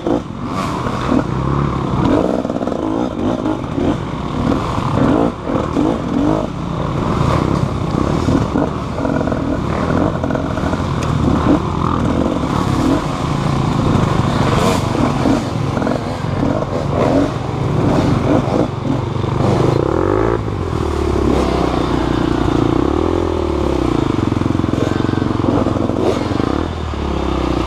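Motorcycle engine running, its pitch rising and falling as the throttle changes, with scattered knocks and rattles.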